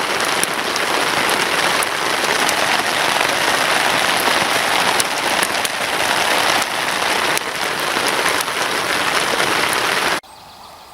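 Steady heavy rain drumming, an even downpour hiss with scattered sharp ticks. It cuts off suddenly about ten seconds in, leaving a much quieter background.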